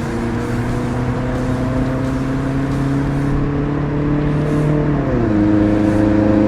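A motor vehicle's engine accelerating, its pitch climbing slowly and then dropping quickly at a gear change about five seconds in.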